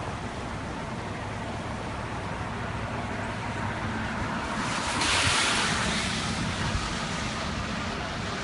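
Steady rushing of fast-flowing floodwater, swelling louder for a second or two about five seconds in.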